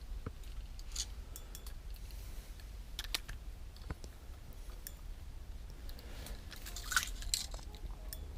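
Steady low wind rumble on the microphone with scattered light clicks and ticks, a small cluster of them near the end.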